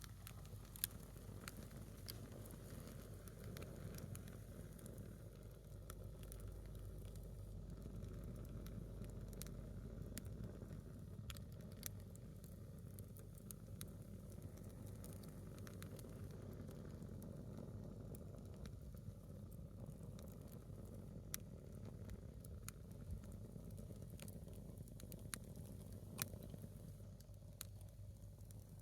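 A small wood fire burning down a single log, with sparse sharp crackles and pops scattered over a low steady rumble.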